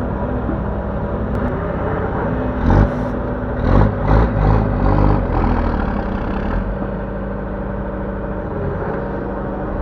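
Diesel engine of a Link-Belt 145X3E hydraulic excavator running steadily under load while loading soil into a dump truck. A run of heavy thuds and clunks comes in the middle, five or six in a little under four seconds.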